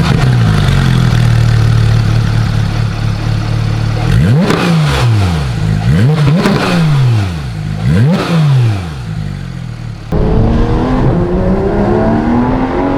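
Porsche GT3 RS 4.0-litre flat-six idling, then blipped four times, each rev rising sharply and falling back. About ten seconds in it changes to a steadily rising pitch as the engine pulls under acceleration.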